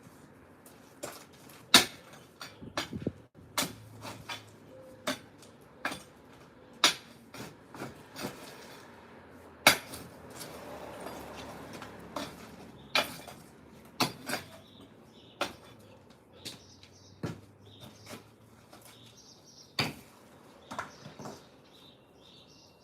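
Concrete being broken up by hand: irregular sharp strikes of hand tools on concrete, roughly one a second, some much louder than others.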